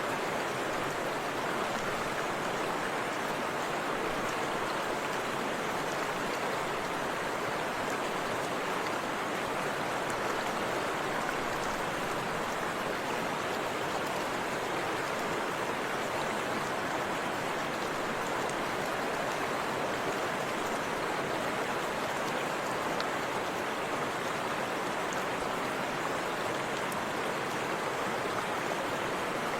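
Forest river water flowing and splashing in a steady rush, with no change in level.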